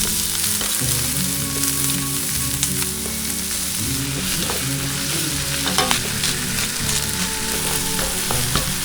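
Food sizzling and frying in a hot pan while it is stirred, with a few sharp clicks of a utensil against the pan in the middle; a pop song plays underneath.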